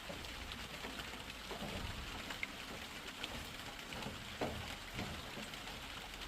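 Steady rain falling, with scattered drips and a few knocks, the loudest about four and a half seconds in.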